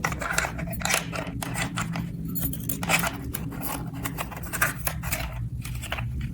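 Small plastic toy pieces and packaging being handled: a quick, uneven run of clicks, taps and rustles over a low steady hum.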